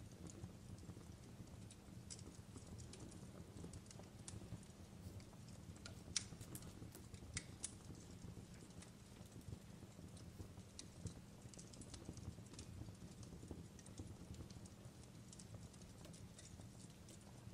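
Wood fire crackling: irregular sharp pops and snaps over a low steady rumble. The two loudest pops come about six and seven and a half seconds in.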